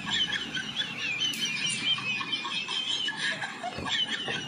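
A bird singing: a high, rapidly wavering warble lasting about three seconds, with a brief second phrase shortly after.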